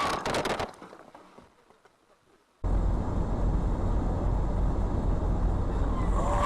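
A quick run of sharp knocks fading out within the first second. After a short quiet gap, a steady rumble of car engine and road noise as heard by a dash camera starts suddenly.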